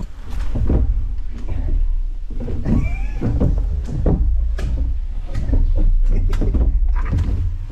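A person sliding down an old playground slide, with a heavy low rumbling and scraping knocks of the body against the slide, and a short squeak about three seconds in.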